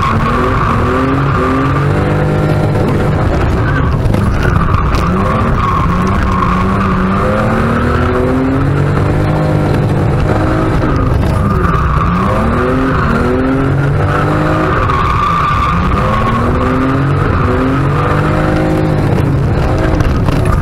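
BMW E36 2.5's straight-six engine, heard from inside the cabin, revving up and falling back again and again under hard driving, with tyre squeal that comes and goes as the car slides.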